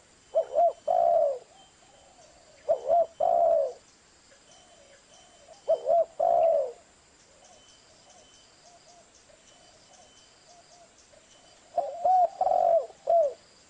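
Zebra dove (perkutut) cooing: four phrases of a few short, quick notes ending in a longer rolled coo, spaced a few seconds apart, the last with more notes. Fainter cooing carries on between the phrases.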